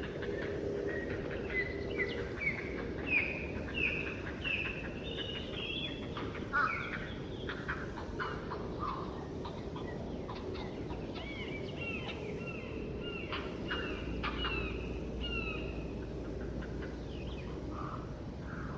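Songbirds singing in a forest: one bird repeats a short downslurred whistled note about twice a second early on, with other chirps and calls scattered through, over a steady low background noise.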